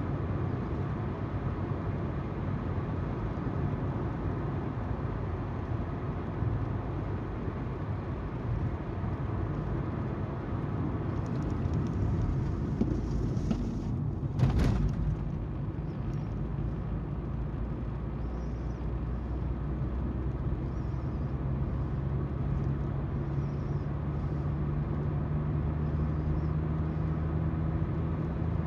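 Car driving: tyre noise from the road and the engine's hum, heard from inside the car. A single sharp knock comes about halfway through, and a steady low engine hum grows clearer in the last third.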